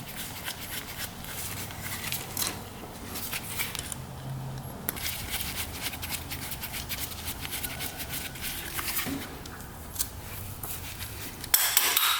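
Small metal clicks, taps and scrapes of hand tools working on a Yamaha RD200 carburetor being taken apart, with a short loud hiss near the end.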